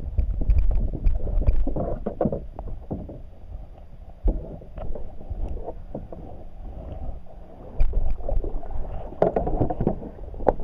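Wind buffeting the microphone over water moving against a fishing kayak's hull, with scattered hard knocks, a sharp one about four seconds in and more near the end.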